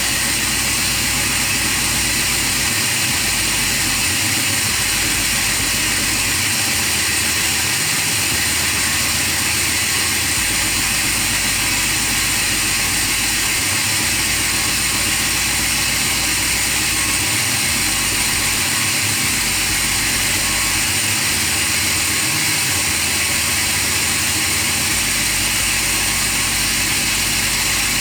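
Project car's engine running at a steady idle just after starting, with an even, unchanging sound and a constant high whine.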